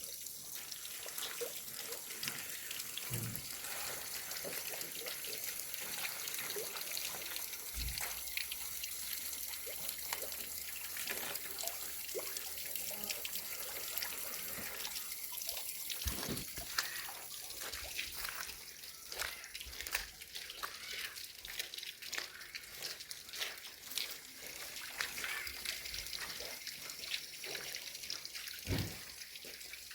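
Water running and splashing steadily, with small drips and clicks, as in washing by hand, and a few dull knocks along the way.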